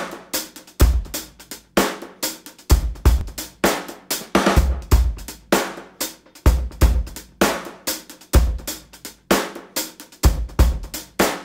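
Background music: a solo drum kit playing a steady beat of kick drum, snare and hi-hat.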